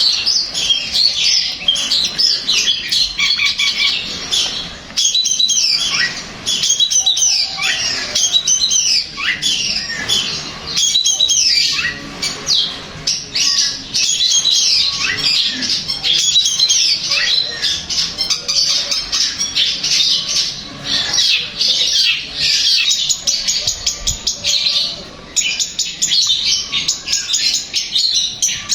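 Long-tailed shrike (cendet) singing in full, continuous voice: a rapid, varied, scratchy chatter of chirps and short rising and falling notes without pause.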